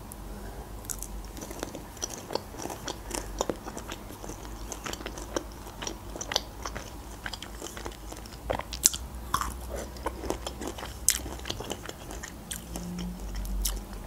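Close-miked chewing of fried pelmeni and a pickled cucumber: wet mouth clicks and smacks, with a few sharper crunchy bites.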